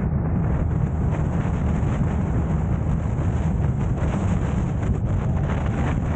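Car driving on a road, a steady low rumble of road and engine noise with wind buffeting the microphone.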